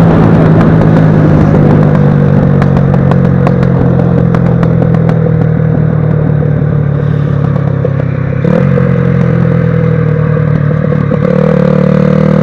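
Small moped engine running steadily at idle, with many light ticks over it; its pitch sags slowly, wavers about two-thirds of the way in, then picks up a little near the end.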